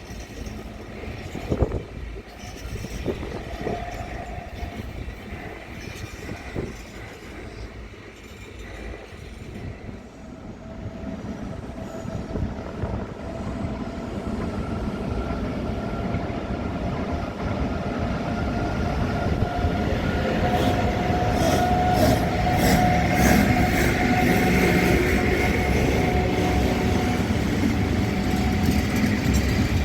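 A train drawing near on the tracks, growing steadily louder from about ten seconds in, with steady whining tones over the rumble and a run of clicks near the end.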